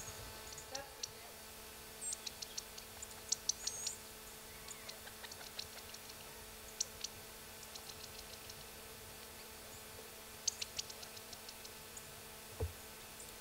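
Small birds calling with short, high chips and twitters in scattered clusters, a few notes curling in pitch. A soft low bump near the end.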